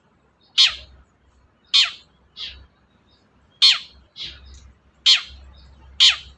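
Long-tailed shrike (cendet) giving seven harsh calls, each a short sharp note falling steeply in pitch. The louder calls come about a second apart, with weaker ones between.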